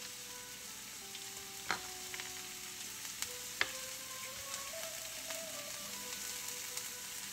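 Chopped mushrooms and chives sizzling in olive oil in a frying pan, a steady hiss, with two sharp clicks about two and three and a half seconds in.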